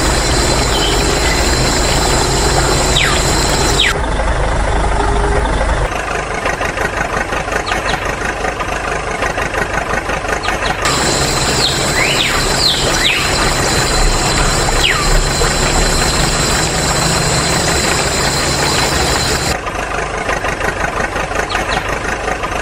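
Engine running at a steady idle with a pulsing, knocking beat, in several spliced stretches whose tone changes abruptly every few seconds.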